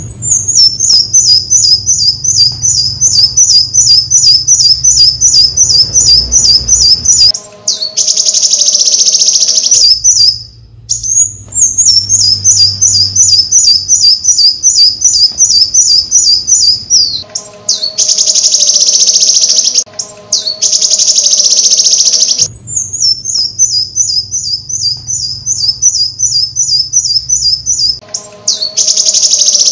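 Bird song: long runs of rapid high chirps, about eight a second and falling slightly in pitch, each followed by a couple of seconds of harsh buzzy trill. The same phrase repeats three times.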